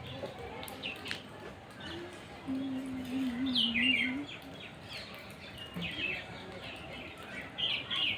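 Small birds chirping: short high calls throughout, bunched together in the middle and again near the end. A low wavering tone sounds underneath for about two seconds in the middle.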